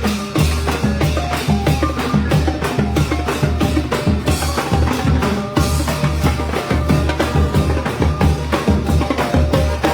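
Thai brass band (trae wong) playing: drums keep a steady, fast beat under brass and a strong bass line.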